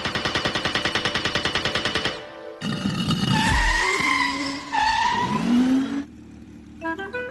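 Cartoon vehicle sound effects: a rapid rattling engine buzz for about two seconds, then screeching skids with wavering, sliding tones. A few short musical notes come in near the end.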